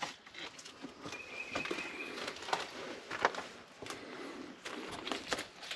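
Irregular crunching footsteps of a hiker moving over loose rock on a steep hillside. About a second in there is a faint, thin whistle lasting about a second.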